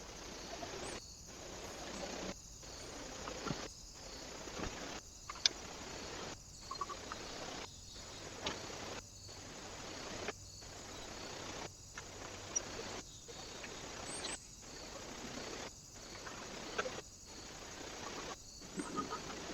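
Trail-camera microphone hiss with outdoor ambience, cut by a brief silence about once a second as the short clips are joined back to back, with a few faint bird chirps and small taps in between.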